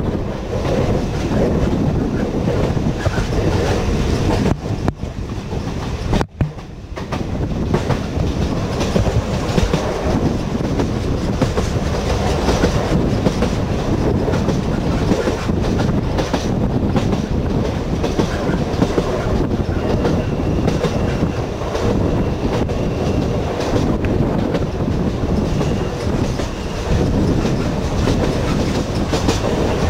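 The Sóller railway's electric train running along the track: a steady rumble, with the wheels clicking over the rail joints.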